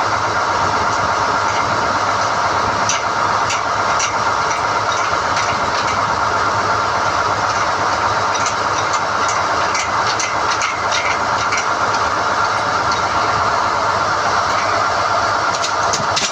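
SDH-1600 core drilling rig running steadily while NQ drill rods are hoisted out of the hole, with clusters of short metallic clicks and rattles about three seconds in, around ten seconds in and near the end.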